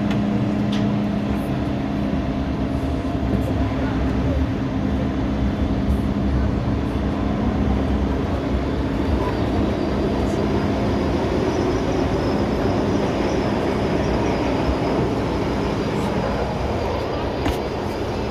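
MTR Tsuen Wan Line M-Train electric multiple unit running through the tunnel, heard from inside the car: a continuous rumble of wheels on rail with a steady traction-motor hum that fades about two-thirds of the way through.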